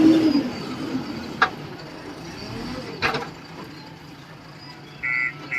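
Diesel engines of a tractor and a JCB backhoe loader running, with a swell in the engine sound at the start and two sharp clanks about one and a half and three seconds in. Near the end a repeating beeping tune starts.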